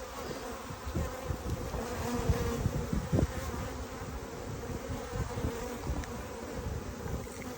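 Honeybees buzzing around an open hive in a steady hum.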